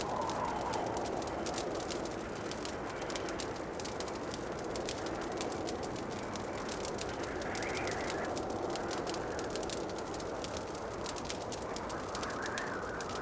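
Wood fire crackling in a fireplace: a continuous run of small pops and snaps over a steady rushing background, which swells briefly twice, about eight seconds in and near the end.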